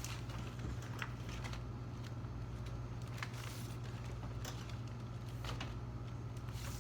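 Steady low hum, with scattered light clicks and ticks over it.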